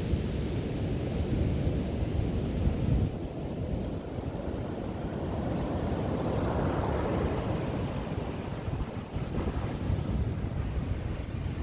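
Ocean surf breaking and rushing on a sandy beach, a steady rumble that swells about halfway through, with wind buffeting the microphone.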